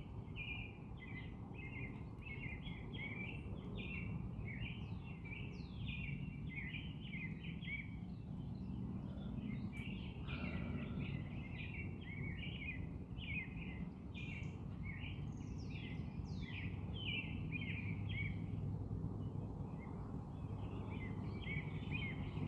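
Small birds chirping in quick, continuous runs, with a couple of brief pauses and a few higher sliding notes, over a steady low outdoor rumble.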